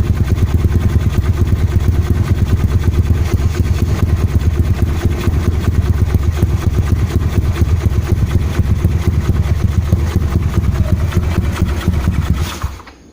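Yamaha Mio scooter's single-cylinder four-stroke engine running steadily through an original AHM exhaust, with a Keihin PE 28 carburettor and a 58 mm piston. Near the end the engine is switched off and the sound dies away quickly.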